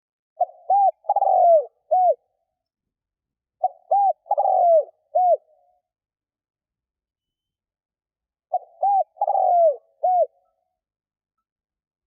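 Spotted dove cooing as a decoy call, three phrases a few seconds apart. Each phrase has two short coos, a longer falling coo and a final short coo.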